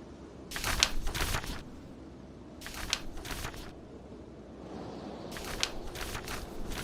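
Book pages being turned three times, each turn about a second of paper rustling with a crisp snap, over a steady low background hiss.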